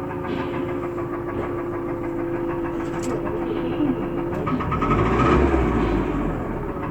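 Evotech A274 2.7 petrol four-cylinder idling with a steady, constant knock, swelling louder for a moment about two-thirds of the way through. The knock comes from badly scuffed piston skirts with the top compression rings stuck, as found on teardown.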